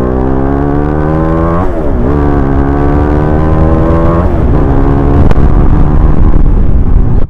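Motorcycle engine accelerating hard through the gears: the pitch rises steadily, drops sharply at an upshift, rises again, and shifts up once more about four seconds in before climbing again.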